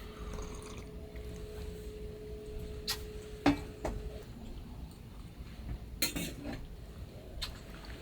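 A few sharp clinks of tableware, such as a cup or plate being handled, the loudest about halfway through and a quick cluster near six seconds. A faint steady tone runs under the first half.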